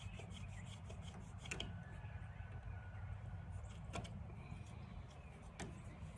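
Faint handling sounds of small parts being worked by hand: a quick run of light clicks in the first second and a half, then a few single clicks, over a low steady rumble.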